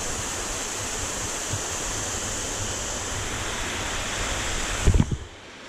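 Waterfall's steady rush of falling water. Near the end comes a brief low thump, and the rush cuts off abruptly.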